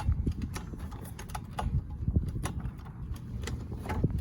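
Scattered light clicks and knocks, irregularly spaced over a low rumble, from handling a small kids' motorcycle just before its engine is started.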